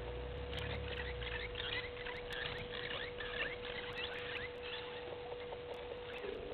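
Small birds chirping and twittering in many quick, varied calls for about four seconds, over a steady faint hum; a low rumble sits under the first two seconds.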